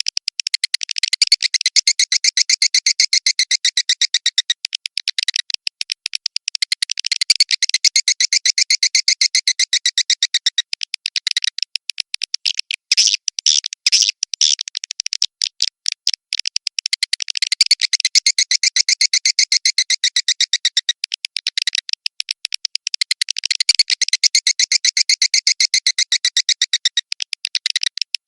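Edible-nest swiftlet calls: fast, dry chattering trills of rapid clicks, repeating in bouts of a few seconds each, the kind of call recording played in swiftlet houses to lure the birds in.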